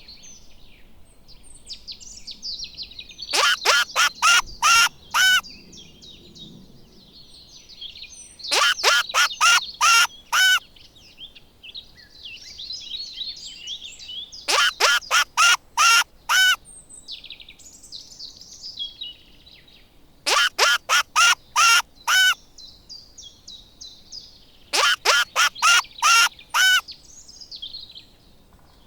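A large bird calls in repeated series of about six loud, short, evenly spaced calls, each series lasting about two seconds, five times over. Small birds chirp continuously between the series.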